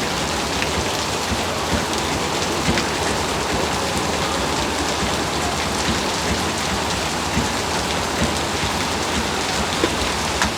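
Heavy rain falling steadily, with scattered sharper drop hits on hard surfaces.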